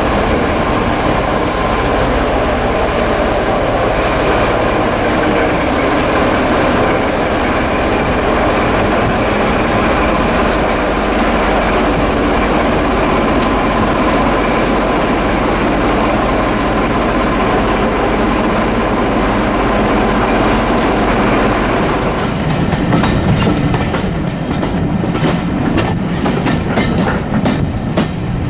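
Passenger train on the move, heard from on board: a steady running noise with a constant high hum, then about two-thirds of the way through, wheels clacking over rail joints in an uneven rhythm.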